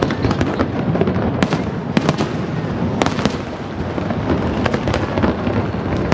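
Fireworks finale barrage: many sharp bangs in quick, irregular succession over a continuous bed of crackling and booming shell bursts.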